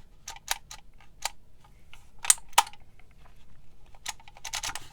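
Handheld embossing label maker: a series of irregular sharp plastic clicks as its letter dial is turned and its handle squeezed to press letters into the label tape, with two louder clicks about halfway through.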